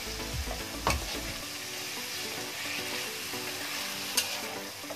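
Masala paste sizzling in hot oil in a kadhai as a steel spatula stirs it; the paste has been fried until the oil separates. The spatula clacks against the pan about a second in and again, more loudly, near the end.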